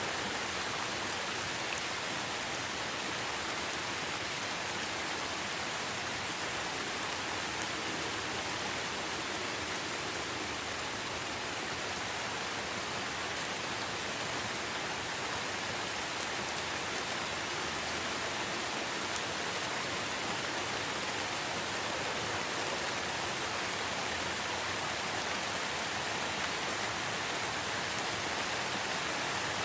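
Steady rainfall, an even hiss that holds level without let-up.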